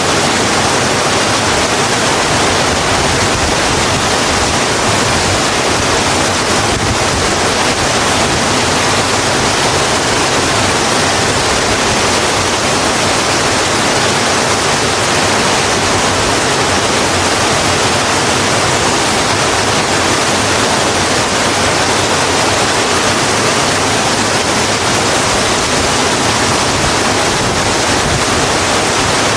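Steady heavy rain, an even dense hiss with no separate drops or other events standing out.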